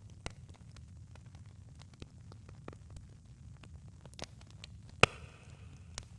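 Wood fire crackling: irregular small pops and snaps over a low rumble, with one loud pop about five seconds in.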